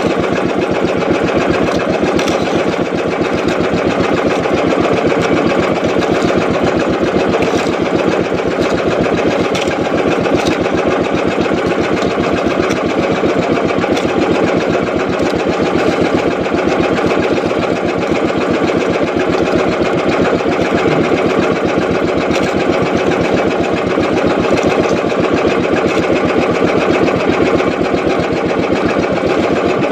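Small fishing boat's engine running steadily at a constant speed, with a fast, even pulsing.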